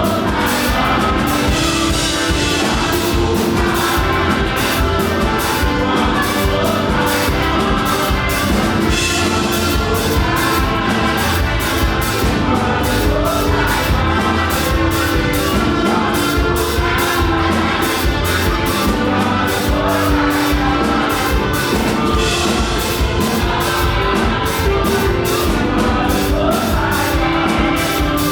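Live fast gospel praise music: a band with a rapid drum beat plays while voices sing.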